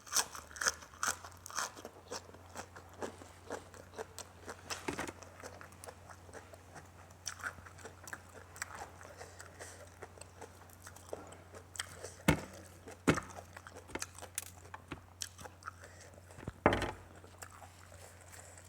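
A person biting and chewing food: a run of small, irregular mouth clicks and crunches, with a few louder bites in the second half, over a faint steady low hum.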